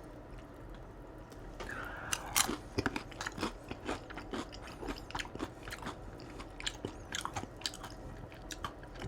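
Close-up eating of a crispy deep-fried crab rangoon (cream-cheese wonton): a crunchy bite a little over two seconds in, then irregular crisp crunches as it is chewed.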